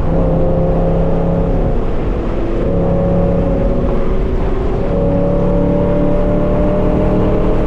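Straight-piped 5th-gen Camaro SS's 6.2-litre V8 exhaust droning at a steady pitch while driving, with two brief breaks in the drone, about two seconds in and again a little before the five-second mark.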